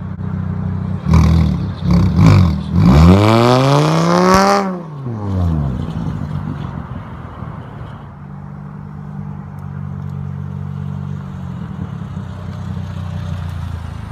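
Car engine revved hard once, its pitch climbing steeply for about two seconds and then falling back about halfway through, before settling to a steady idle.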